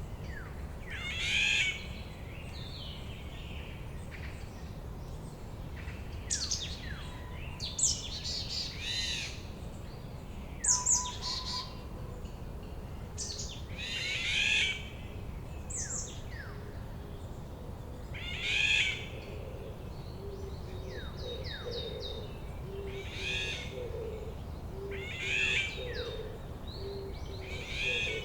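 Several wild birds singing and calling, with a loud phrase every two seconds or so. About two-thirds of the way in, a low note starts repeating evenly underneath them.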